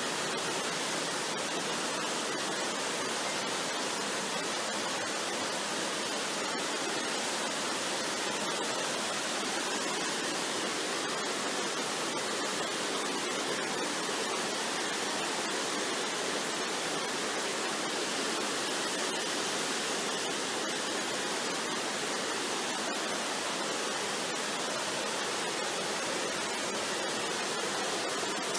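Waterfall: a steady, unbroken rush of falling water, even throughout with no distinct splashes or other events.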